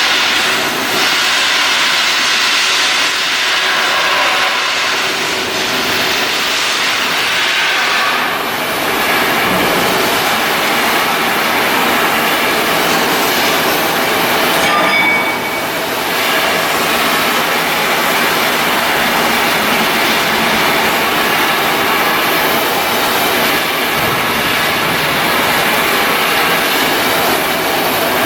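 Loud, steady, clattering industrial noise of shipyard work, with a short dip about halfway through.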